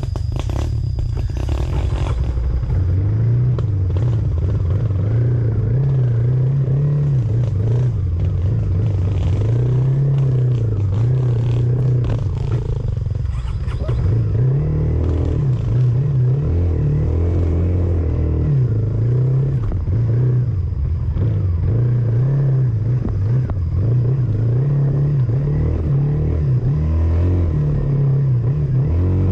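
A motor vehicle's engine running, its pitch rising and falling again and again as it speeds up and eases off, with a heavy low rumble.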